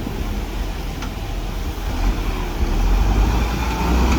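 Heavy diesel engine of earthmoving machinery running with a deep rumble, growing louder about two to three seconds in.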